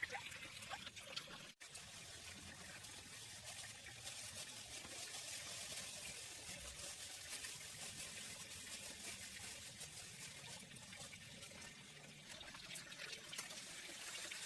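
Faint, steady water trickling, with a momentary gap about a second and a half in.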